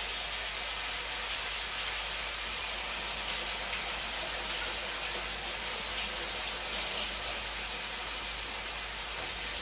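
Chicken pieces frying in a pan, a steady sizzle with a few faint crackles, being browned only lightly, just until white.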